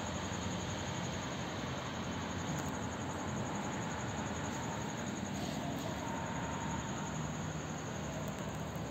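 Steady background hiss with a faint, low rumble from a train still far off down the line, and a steady high-pitched whine throughout.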